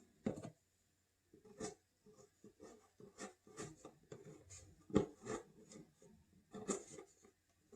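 Faint, irregular scratching and rubbing on paper, with a few light ticks, as the rim of a plastic bottle cap is worked around the edge of a magazine cutout, creasing a circle to mark where to cut.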